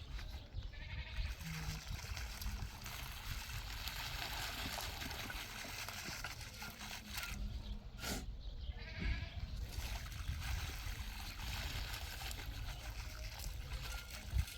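Livestock bleating a couple of times, once about a second in and again near the middle, over a steady rushing noise.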